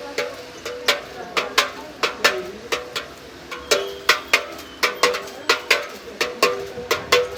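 Small bells struck in a quick, irregular peal, several strikes a second, each leaving a short ring. The ringing briefly thins out about three seconds in, then picks up again.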